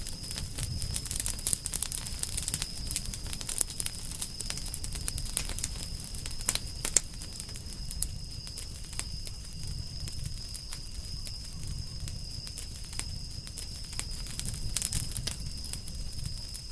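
Wood campfire crackling, with frequent sharp snaps and pops that thin out about halfway through, over a low rumble. A steady thin high tone runs underneath.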